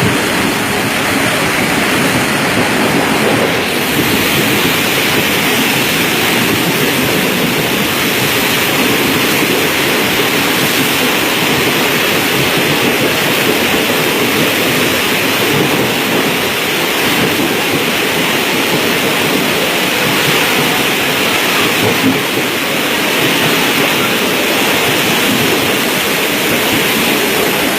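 Heavy monsoon rain pouring down, a steady loud hiss that does not let up.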